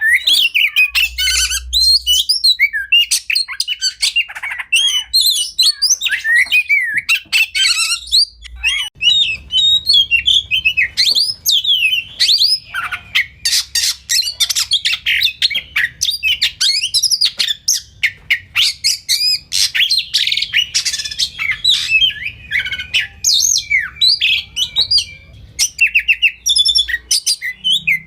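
Oriental magpie-robin singing continuously: a rapid, varied song of whistled phrases and chirps, laced with fast harsh rattling notes through the middle.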